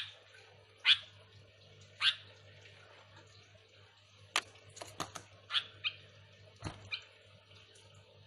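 Sooty-headed bulbul (kutilang) giving short, sharp call notes, about a dozen spaced irregularly and bunched together near the middle, over a faint steady low hum.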